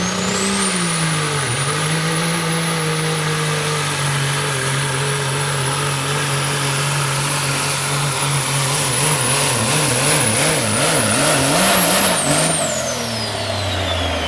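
Limited Pro Stock semi truck's turbocharged diesel engine at full power on a pull, with a high turbo whistle held over the deep engine note. The engine pitch wavers for a few seconds before the whistle falls away near the end as the throttle comes off.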